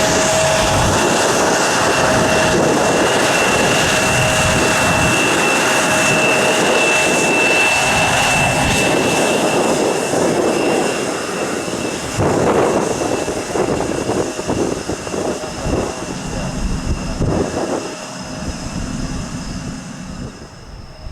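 Jet airliner's engines at high takeoff thrust, loud with a steady high whine. The sound fades over the second half as the plane moves away.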